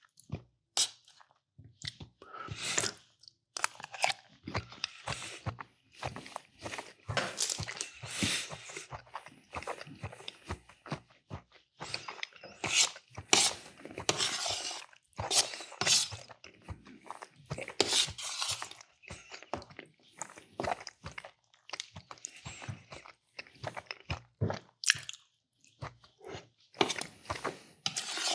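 A person chewing and biting food close to the microphone, with crunching in quick irregular bursts.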